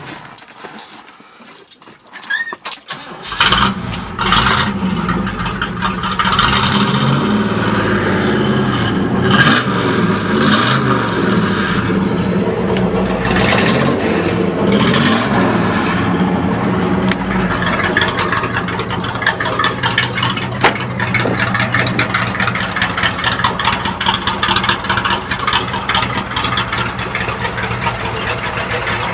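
1969 Oldsmobile F85's engine cranking and starting about three seconds in. It runs with its pitch rising and falling for several seconds, then settles into a steady idle.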